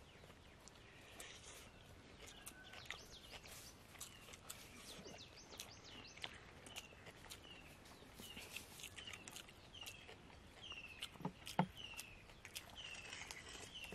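A bird calling over and over in the background, a short falling chirp repeated roughly twice a second, over faint outdoor background noise. Scattered faint clicks run through it, and two soft knocks come about eleven seconds in.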